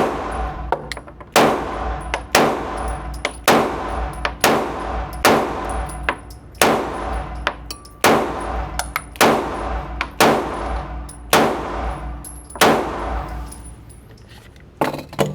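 A firearm firing about a dozen single shots at a steady pace of roughly one a second, each crack trailing off in echo, followed by two quieter clicks near the end.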